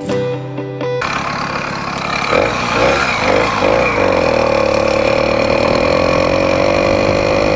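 Guitar music cuts off about a second in, then the small engine of a motorized-bicycle kit runs, revving in a few quick blips before settling to a steady pitch.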